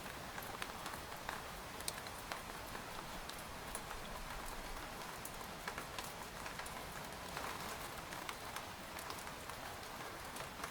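Steady rain pattering on a tent's fabric, a constant hiss with many separate drop taps scattered through it.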